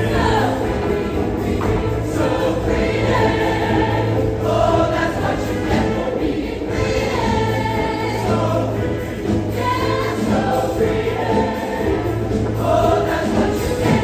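Show choir singing in full ensemble over instrumental accompaniment, with a steady sustained bass underneath.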